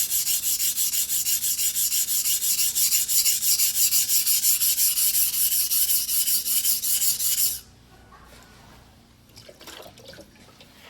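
Mizuno Tanrenjo white-steel fugu-hiki sashimi knife being stroked by hand on a whetstone in rapid, even strokes, about five a second, with a hissing rasp. The strokes stop suddenly about three-quarters of the way in, followed by a few faint knocks.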